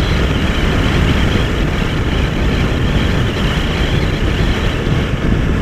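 Steady wind rush and riding noise from a Yamaha R3 sport bike cruising at an even speed, with no change in pace or engine note.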